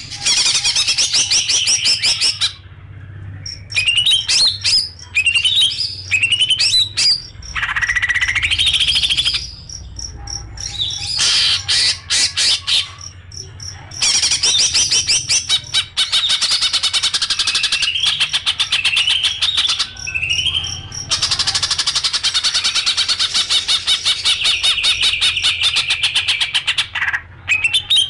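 A songbird singing a fast, varied song: long rapid trills with rising whistled sweeps in between, in phrases a few seconds long separated by short pauses.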